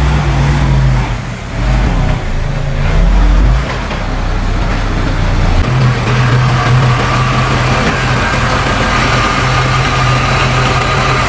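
Heavy diesel engine of earthmoving machinery running. It changes in pitch and loudness over the first few seconds, then settles to a steady drone from about halfway through.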